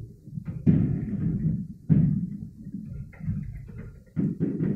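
Aerial firework shells bursting: several deep booms a second or two apart, each trailing off in a rumble.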